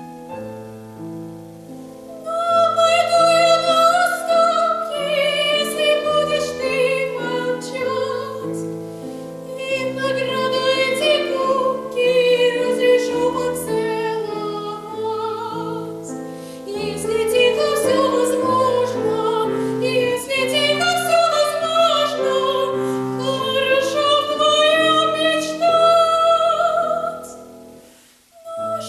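A female classical voice singing in operatic style with wide vibrato over piano accompaniment. The piano plays alone for the first two seconds before the voice comes in, and the music breaks off briefly near the end.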